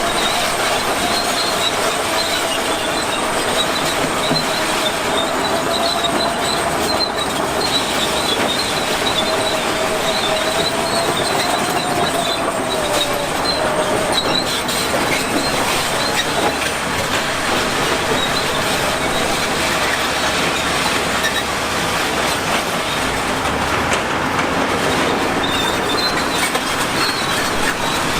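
Bulldozer running and moving on its crawler tracks, with a steady mechanical din and a wavering squeal from the tracks that fades after the middle.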